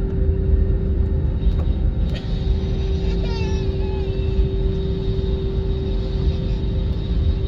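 Jet airliner engines running steadily during takeoff: a constant deep rumble with a steady hum on top. A brief pitched sound cuts in a little past three seconds in.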